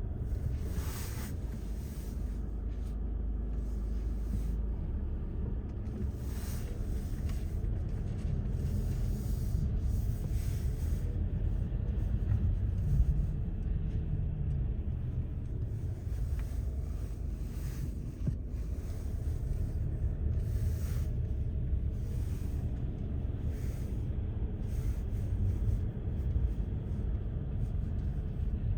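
A steady low rumble with wind noise on the microphone, with no distinct events.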